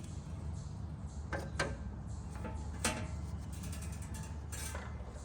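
A handful of short, irregular metallic clicks and knocks from hand tools, a wrench or breaker bar being fitted to a mower blade bolt under the deck, over a steady low hum.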